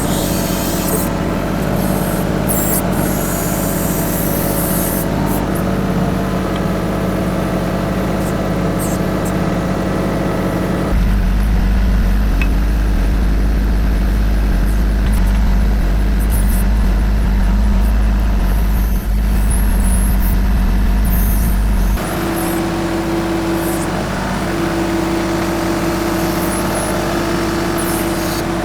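TYM 2515H compact diesel tractor running under work while digging with its BH150 backhoe. The sound changes abruptly twice: a heavy low rumble takes over about a third of the way in, and a steady whine with one short break appears about two-thirds in.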